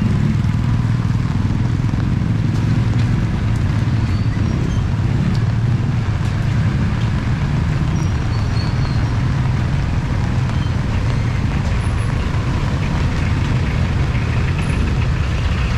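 Steady low rumble of road vehicles' engines running on a street, with an even background hiss and no clear changes.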